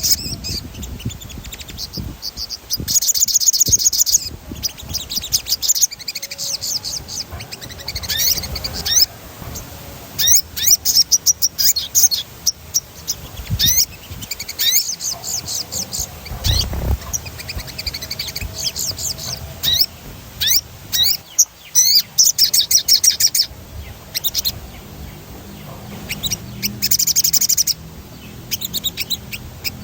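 A sogon songbird singing vigorously in repeated bursts of fast, high trills and quick chirping notes, with short pauses between phrases.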